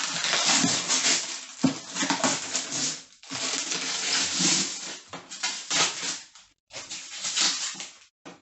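Plastic packaging crinkling and rustling as it is pulled off and handled, in irregular stretches with brief pauses.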